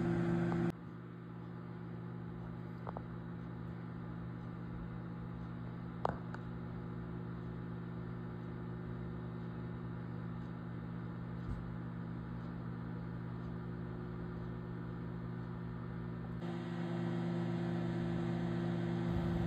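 Microwave oven running with a steady low hum while it heats a Hot Pocket, with a light click about six seconds in.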